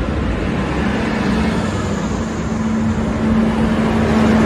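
NSW TrainLink diesel railcar passing close by: engine running with wheel-and-rail noise, and a steady hum that begins about a second in.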